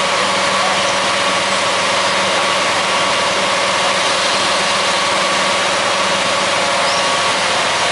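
Engine of road-construction machinery running steadily at an even idle-like pitch, with a constant hum and no changes.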